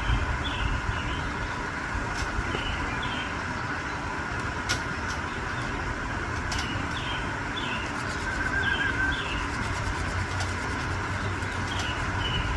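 Small birds chirping in short clusters every second or two, with one brief warbling call about eight seconds in, over a steady low rumble.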